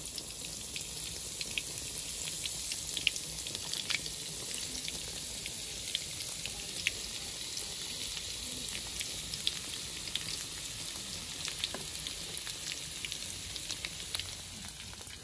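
Tofu and minced lemongrass frying in hot oil in a pan: a steady sizzle with many small, irregular crackling pops.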